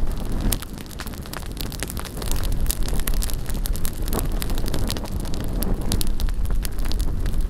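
Bonfire crackling, with many sharp pops and snaps, over low rumbling wind buffeting the microphone.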